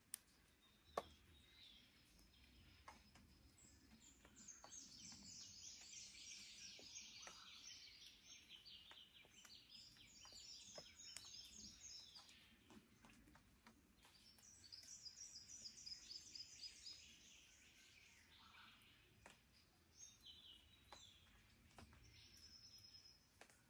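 Faint dawn chorus of Australian forest birds: two long spells of fast, high chattering calls, one from about four seconds in and one from about fourteen, with shorter whistled notes between. A single sharp tick about a second in.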